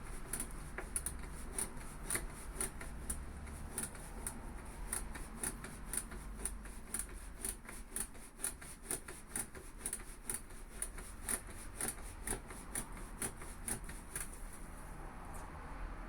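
Headlight vertical-aim adjuster on a Honda NT1100 being turned, giving a long run of small, even clicks about three a second that stops shortly before the end.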